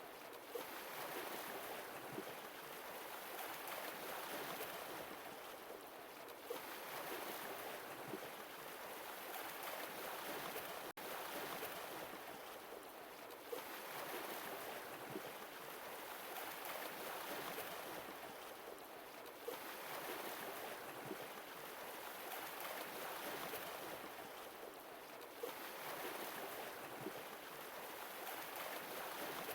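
Sea waves washing in, swelling and easing about every five or six seconds, with small splashes and clicks of water.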